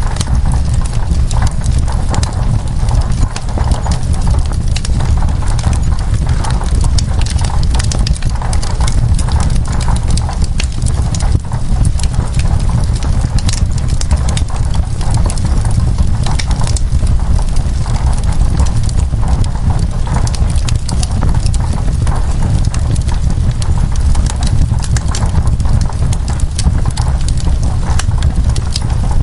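Wood fire crackling with frequent sharp pops over a steady low rumble and the hiss of rain on window glass.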